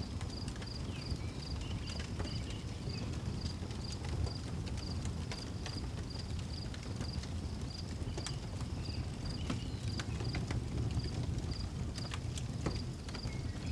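Wood fire crackling, with scattered sharp pops over a low rumble, while a cricket chirps steadily about twice a second.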